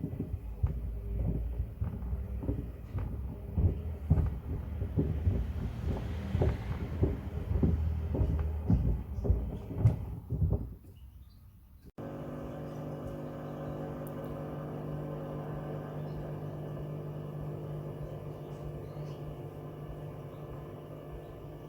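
Pieces of wood tumbling in a Hoover washing machine's drum, with repeated irregular knocks and clatter over a low rumble that fades out near the middle. After a cut, a steady machine hum at one fixed pitch.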